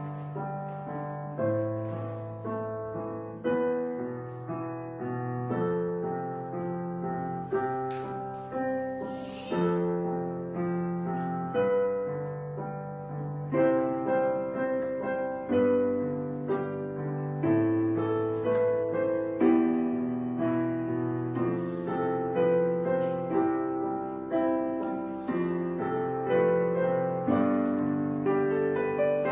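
Background piano music: slow, gentle chords struck about once a second.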